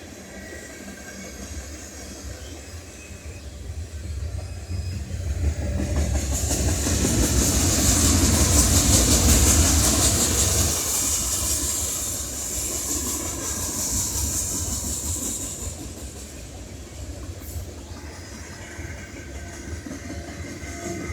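Union Pacific manifest freight train's cars rolling past: a steady rumble with wheels clicking over the rail joints. It swells to its loudest about eight to ten seconds in, with a high hiss from the wheels, then eases off.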